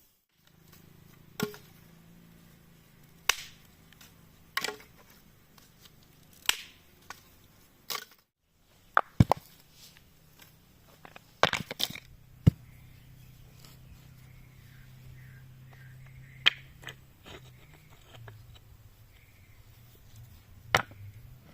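A series of sharp cracks and knocks, about a dozen at irregular intervals, some in quick pairs, over a faint steady low hum.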